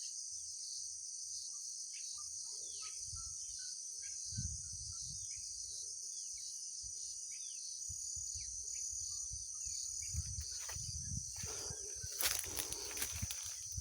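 Forest ambience: a steady high-pitched chorus of insects such as crickets, with short falling bird chirps scattered through it. Near the end, crunching footsteps on the trail begin.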